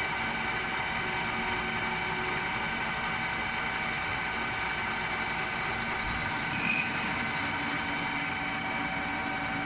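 Steady machine hum of a CNC machine running its coffee cycle, with a brief high-pitched ping about two-thirds of the way through.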